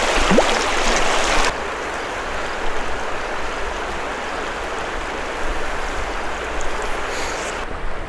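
A river rushing steadily. The rush drops a step in loudness about a second and a half in.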